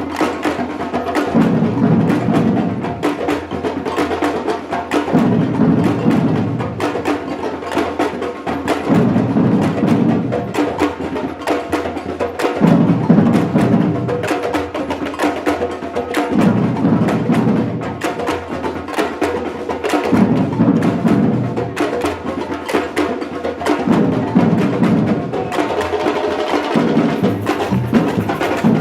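Batucada percussion ensemble playing: a dense, fast stream of drum and block strokes over deep drums that come in phrases lasting about a second and a half, roughly every three to four seconds.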